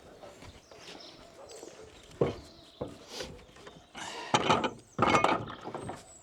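Scrap wooden boards knocking and clattering as they are handled: a couple of single knocks, then two louder bursts of clatter about four and five seconds in.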